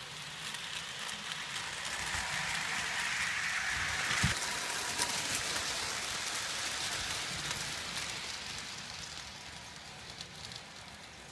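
Lionel model train running along its track, a continuous rattle of wheels on rails that grows louder over the first four seconds or so and then slowly fades as it moves away.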